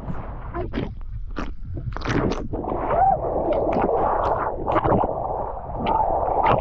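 Water rushing and splashing along a water-park slide as a rider goes down it, with many sharp splashes and slaps through a steady rush.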